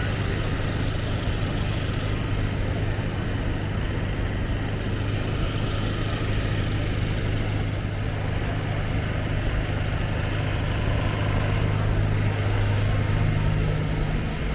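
Busy city street ambience: a steady low hum of idling engines under a constant wash of traffic noise.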